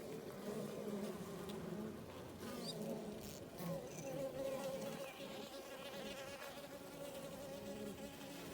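Honey bees buzzing close by: a steady hum of several wingbeat tones that waver slightly in pitch.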